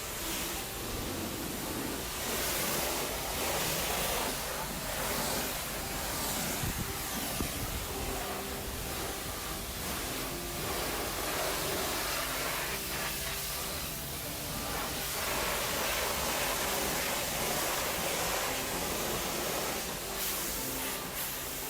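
High-pressure water spraying from a self-service car wash lance: a steady hissing rush that swells and eases as the spray moves.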